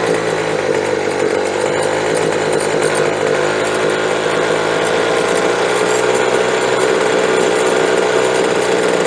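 Small two-stroke engine of a handheld leaf blower running steadily, its carburetor freshly adjusted on the high and low screws so that it now runs smoothly instead of stalling.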